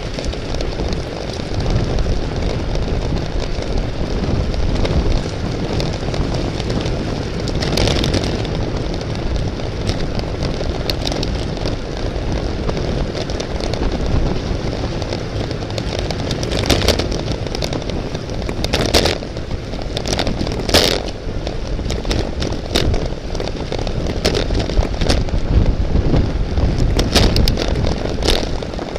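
Steady wind rush and road rumble on the microphone of a camera carried in a bicycle race, with scattered sharp clicks and rattles, a cluster of them around the middle and more near the end.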